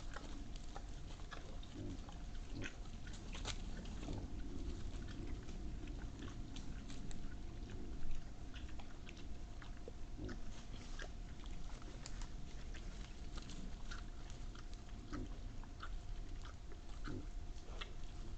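Wild boar chewing and crunching on animal remains close to the microphone, a run of irregular bites and cracks, with one louder knock about eight seconds in.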